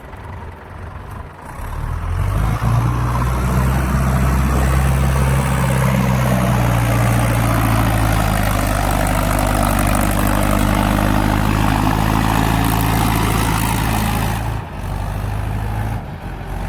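Mahindra tractor's diesel engine running, loud and steady. It builds up about two seconds in and drops back abruptly near the end.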